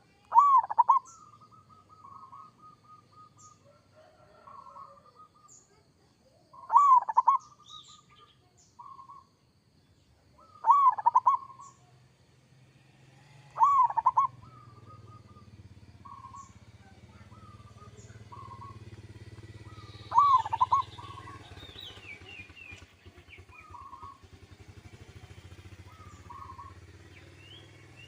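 Zebra dove (perkutut) singing its rolling cooing song: five loud phrases a few seconds apart, with softer short coos between them. A low steady hum sits underneath from about halfway.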